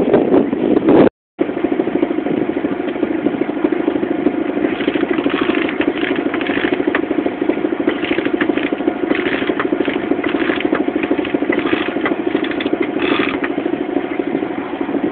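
Boat engine running steadily at an even pace, with a faint light clatter over it; the sound drops out briefly about a second in.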